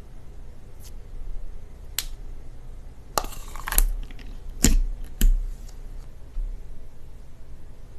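Slime being pressed and squeezed by hand, giving a handful of sharp crackling pops and clicks, the loudest about halfway through.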